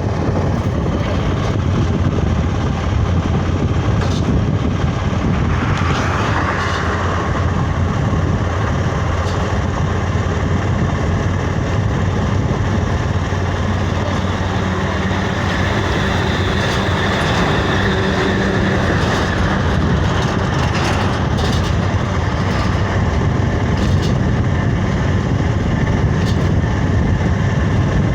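Steady, loud rumble of a running vehicle, a continuous low hum under even road or wind noise.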